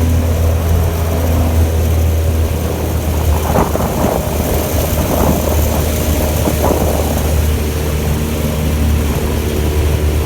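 15 hp outboard motor running steadily, the boat under way, with a stretch of rougher, irregular noise in the middle.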